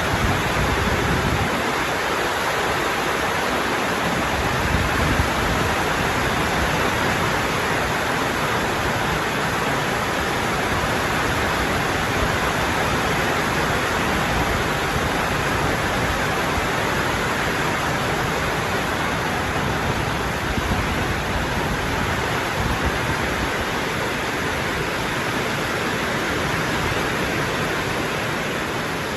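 Rain falling steadily: a dense, even hiss with no letup.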